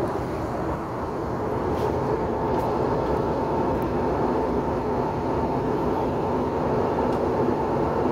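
Steady cabin noise of a jet airliner on the ground just after landing: the engines running and the rumble of the aircraft rolling, heard from inside the passenger cabin, with a faint steady hum and a few light clicks.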